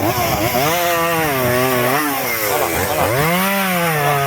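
Chainsaw running at high speed while cutting through a log. Its engine pitch sags under the load of the cut and climbs back several times, dipping most deeply about three seconds in.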